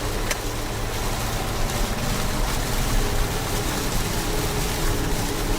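Steady rushing noise of heavy rain, with a low steady hum underneath.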